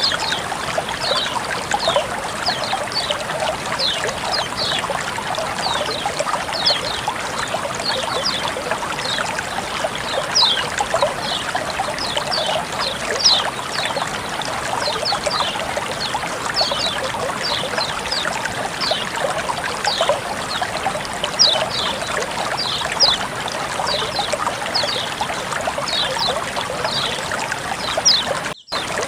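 Flowing water trickling steadily, with a constant rush and many quick high plinks of water over the top. The sound briefly cuts out near the end.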